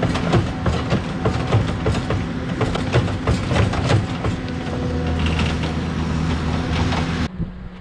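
Takeuchi TL230 compact track loader working, its diesel engine running steadily under load with frequent clanks and knocks from the tracks and bucket as it strips out old sod. The sound cuts off abruptly near the end.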